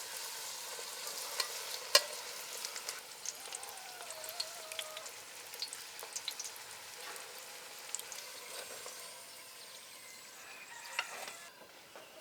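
Chebureks deep-frying in hot oil: a steady sizzle with sharp crackles and pops throughout, the loudest pop about two seconds in. The sizzle falls away near the end.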